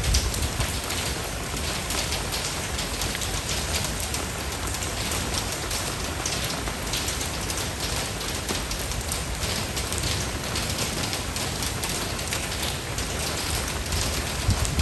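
Steady rain: a dense, even hiss of falling drops with fine patters throughout, over a low rumble that swells briefly at the start and again near the end.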